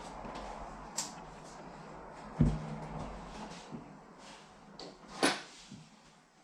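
Rummaging through tool storage: a few separate knocks and clatters of things being moved and set down. The loudest is a dull thump about two and a half seconds in, with a sharper knock near the five-second mark.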